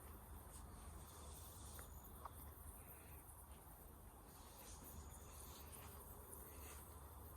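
Near silence with faint, short, high chirps of crickets now and then.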